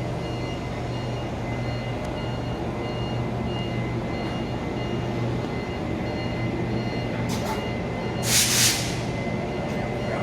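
Railway locomotive standing with a steady low hum, with faint high tones pulsing on and off. About seven seconds in a short puff of compressed air, then a louder hiss of air lasting about half a second.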